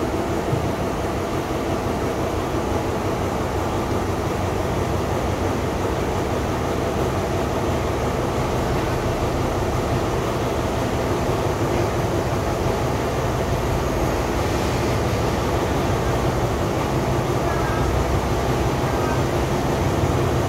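Diesel train running slowly out of a station: a steady low engine hum under an even rumble, with no breaks.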